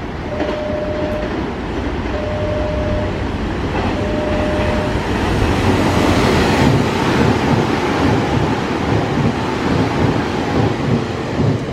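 Nankai 9000 series electric train passing through the station at speed without stopping: a loud rumble of wheels on rail that swells to its loudest about six to seven seconds in, then eases. Three short beeps of one steady tone sound during the first five seconds.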